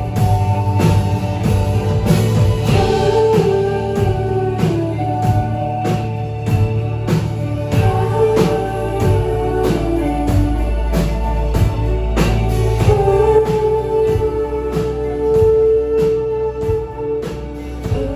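A live band playing a song, with a steady drum-kit beat of about two hits a second, bass and electric guitar, and a held, gliding melody line on top.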